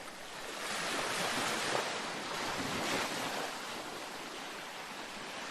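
Gentle ocean waves washing onto a beach: a hissing wash of surf that swells about half a second in and slowly eases off.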